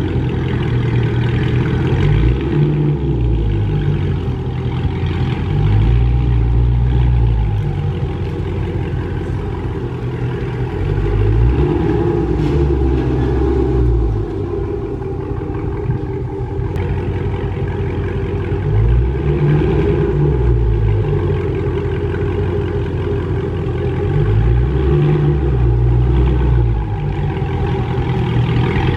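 Dodge Charger's 392 HEMI V8 running at idle while the car is slowly moved and parked, its engine note swelling a few times as it picks up a little speed and settling back.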